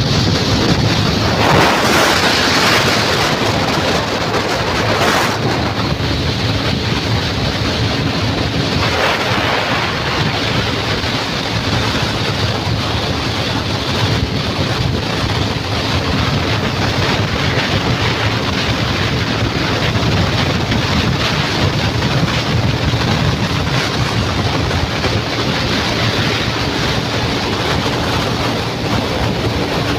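Wind buffeting the microphone on a moving motorcycle, with the engine running steadily underneath.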